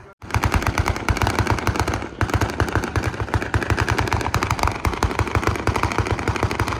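Car engine held at high revs through donuts, with a loud, rapid, crackling exhaust. It starts abruptly just after the opening moment.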